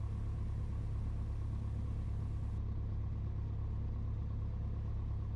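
Piper Warrior II's four-cylinder Lycoming engine running at low power while taxiing, a steady low drone heard from inside the cockpit.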